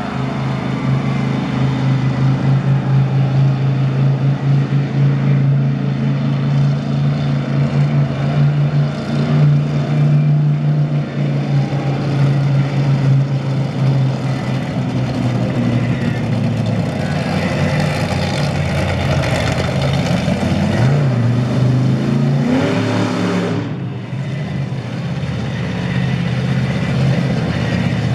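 Monster truck engine running hard through a freestyle run, with the pitch climbing as it revs near the end and then cutting back sharply for a moment.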